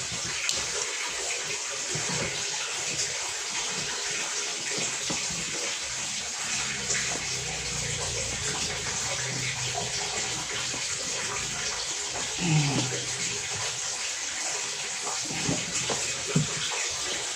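Water running steadily, with a few faint, brief low sounds over it.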